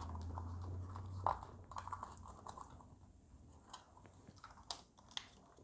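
Faint clicks and ticks of hands handling plastic RC parts, with a low steady hum in the first second that stops with a click.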